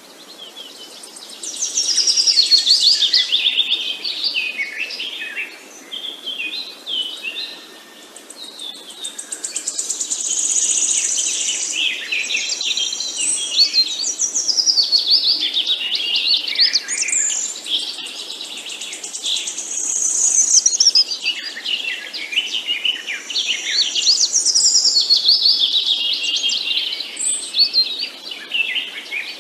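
Several songbirds singing and chirping at once, dense overlapping phrases of quick high trills and sweeping notes with no pauses.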